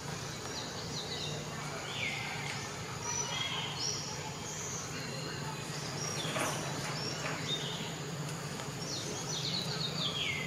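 Birds chirping all around, many short falling calls, over a steady low hum.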